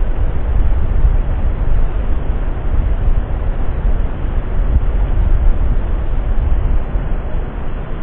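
Steady low rumbling noise, loudest in the deep bass, without a clear pitch or separate knocks, like a vehicle or train rumble.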